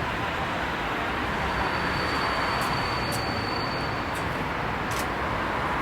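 Train running, a steady rumble with a few sharp clicks and a thin high whine for about two seconds in the middle.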